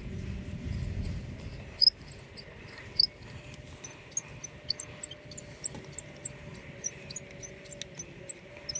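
Sharp metallic clinks and a run of small irregular clicks from hand tools turning a brake caliper pin out with an Allen wrench. There are two loud clinks early on, then lighter clicks a few times a second.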